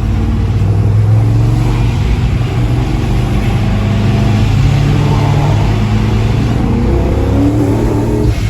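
Car engine running steadily at low revs, with small shifts in pitch and a slight rise in revs near the end.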